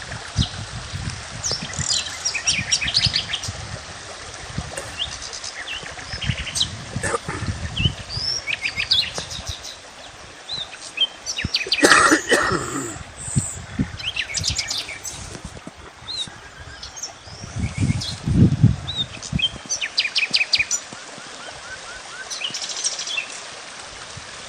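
Several small birds chirping and trilling with short, repeated notes, over a low outdoor rumble that rises and falls. About halfway through, a louder noisy burst stands out.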